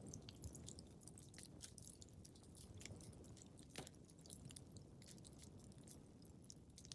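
Faint crackling of a wood fire in a fireplace: a dense run of quick small crackles and pops over a low soft rumble, with one sharper pop near the middle.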